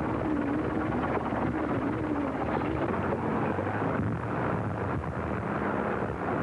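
Battlefield sound effects on an early sound-film track: a continuous rumble of shellfire with dense crackling. A faint wavering whine runs through the first two seconds or so.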